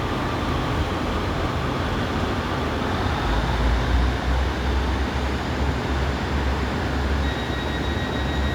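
Class 150 and Class 156 diesel multiple units pulling out together, their underfloor diesel engines giving a steady low rumble that grows heavier a few seconds in. A thin steady high whine joins near the end.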